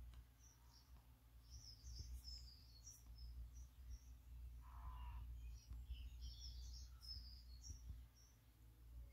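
Faint, short, high bird chirps and twitters in two spells over a steady low hum, with one brief lower call about five seconds in.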